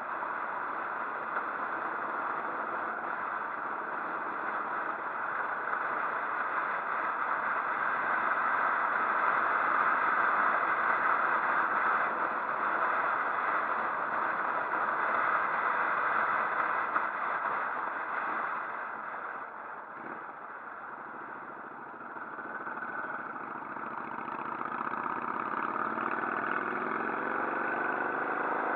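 Motorcycle riding, with a steady rush of wind and road noise over the engine. The sound eases off about two-thirds of the way through, then the engine's pitch climbs near the end as the bike speeds up.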